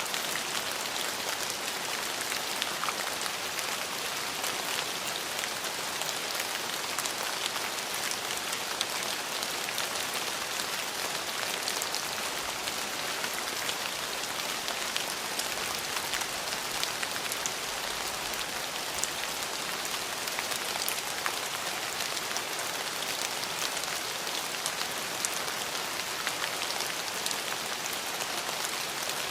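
Steady rain falling, an even hiss with many small drop ticks pattering on surfaces.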